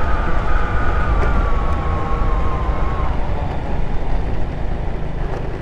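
Ice Bear Hawkeye 150cc scooter's GY6 single-cylinder four-stroke engine running on the move, its whine falling slowly in pitch over the first few seconds as the scooter slows, under heavy wind rumble on the microphone.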